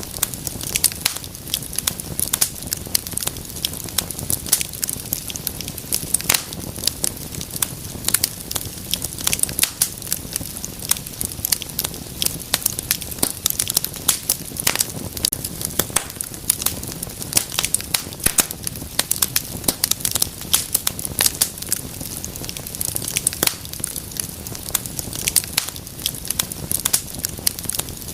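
Fireplace fire crackling: a dense, irregular run of small sharp pops over a soft, steady rush of flame.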